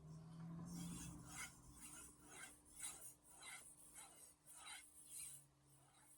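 Faint, even strokes of a knife edge scraping across a Shapton Glass 2000 whetstone, about two a second, with a faint steady hum underneath.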